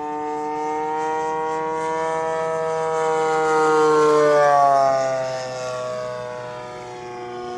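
The Gilmore Red Lion Racer model's 33cc two-stroke gas engine making a low, fast fly-by. The engine note grows louder to a peak about four seconds in, then drops in pitch and fades as the plane passes and flies away.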